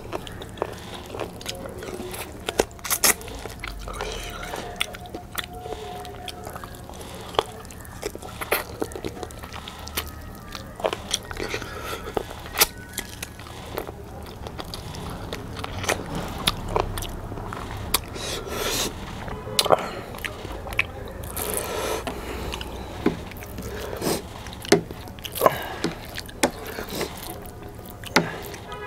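Close-miked chewing and biting of chicken and biryani rice eaten by hand, with many sharp, wet mouth clicks and smacks.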